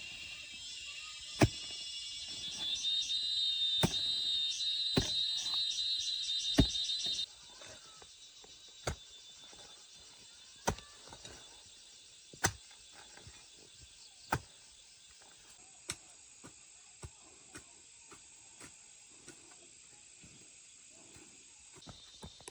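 Sharp knocks of a tool striking wood, about one every two seconds, as in chopping or hammering during building work. For the first seven seconds a high, pulsing insect drone runs with them, then cuts off suddenly.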